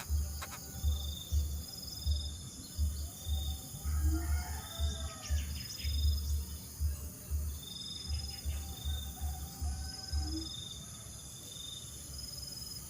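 Insects chirping in an even high-pitched rhythm, about once a second, with a short bird call about four seconds in. Under them run irregular deep thudding pulses, the loudest sound.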